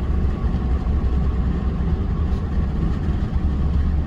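Steady low rumble of a vehicle driving on the road, engine and road noise running evenly without a break.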